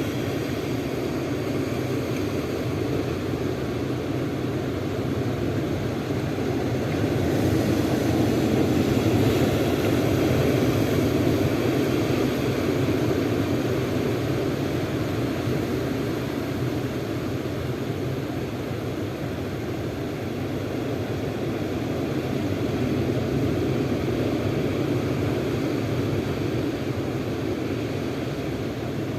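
A steady engine drone, growing somewhat louder for a few seconds about a third of the way in.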